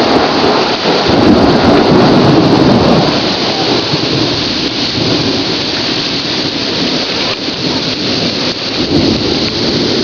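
Heavy rain pouring down in strong wind, a dense steady hiss that swells louder from about one to three seconds in and again briefly near the end.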